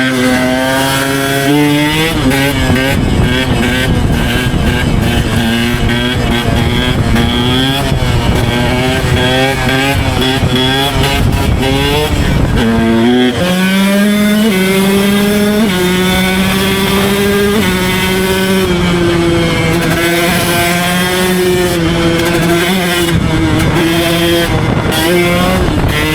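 Two-stroke Husqvarna dirt bike engines running under throttle, one fitted with a short Pro Circuit R304 exhaust. The pitch rises and falls with the throttle, drops sharply about halfway through, then climbs again in steps.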